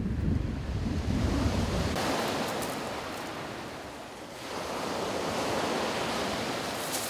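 Sea surf breaking and washing up a shingle beach, a wave swelling up about halfway through. Wind buffets the microphone with a low rumble for the first couple of seconds.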